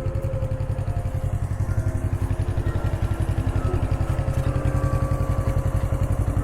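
Motorcycle engine idling with a steady, quick pulsing beat, while church bells ring faintly behind it.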